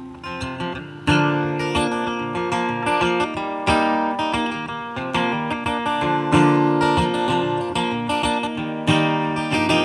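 Acoustic guitar strumming chords in an instrumental passage of a country song played live, with no vocals.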